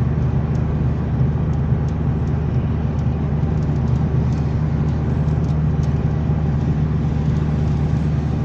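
A car running along the road: a steady, low engine and road drone that holds an even level throughout.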